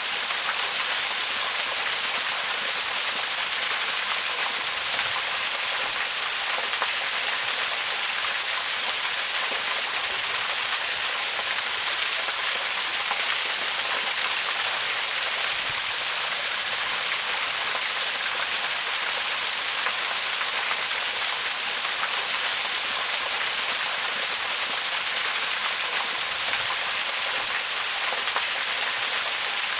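Waterfall: a steady, unbroken rush of falling water, bright and hissy, with little low rumble.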